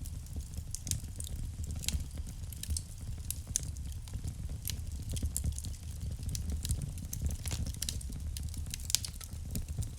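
Wood fire burning in a fireplace: frequent sharp crackles and pops over a steady low rumble of the flames, with one louder pop near the end.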